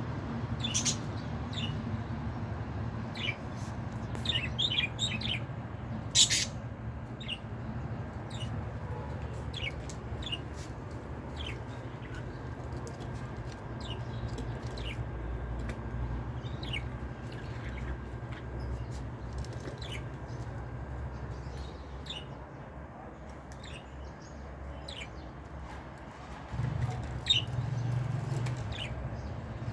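Small birds chirping in short, scattered chirps over a steady low rumble that grows louder for a few seconds near the end.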